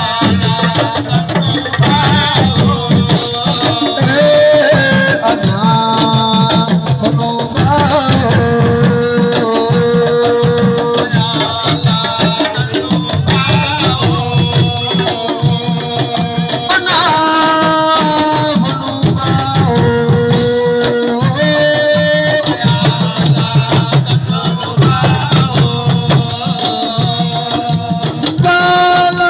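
Live assiko band music: hand drums and shakers keep a dense rhythm under a singing voice and melody line.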